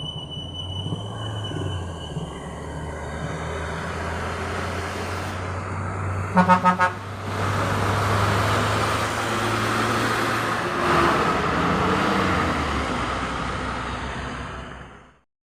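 A heavy vehicle engine runs steadily at low revs. About six seconds in, a horn gives four short, quick toots. Louder engine and tyre noise from passing traffic follows, then fades and cuts off suddenly near the end.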